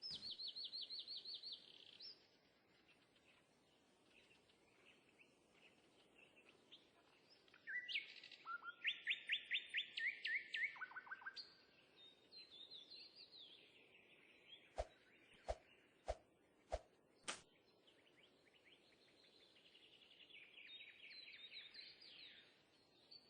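Birds singing in quick trills of rapid repeated chirps, in three runs with pauses between. About halfway through come five sharp clicks in a row, roughly half a second apart.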